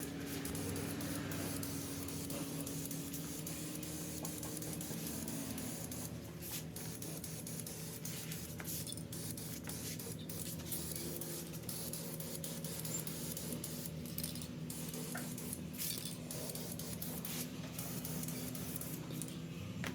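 Aerosol spray-paint can spraying in long hissing passes, broken by many brief pauses between strokes. A steady low hum runs underneath.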